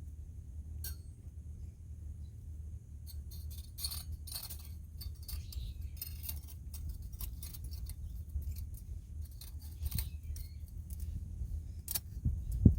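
Thin titanium panels of a SOLA TITANIUMGEAR Super Nature folding wood stove clinking and clicking as they are handled and slotted together, an irregular scatter of light metallic clicks over a low rumble.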